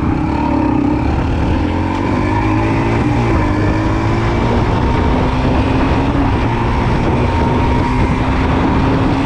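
A 110cc single-cylinder four-stroke pit bike engine running steadily under way, its pitch rising and dipping slightly with the throttle.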